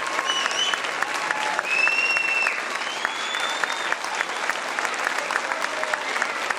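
Audience applauding and cheering, dense clapping with a few high-pitched calls held above it, the longest lasting nearly a second about two seconds in.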